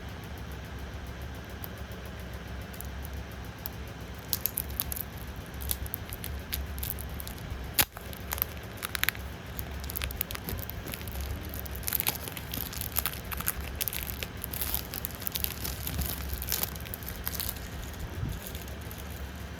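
Crinkling, crackling rustles of plastic wrap and packaging being handled and torn open on a tarot card box, starting a few seconds in, with one sharp click about eight seconds in, over a steady low hum.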